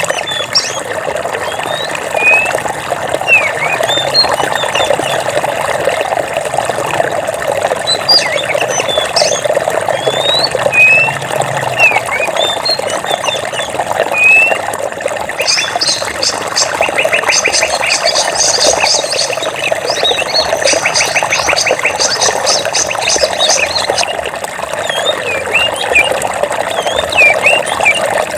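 Water running steadily, with birds chirping over it throughout. From about halfway through, a fast, evenly pulsed high trill goes on for some eight seconds.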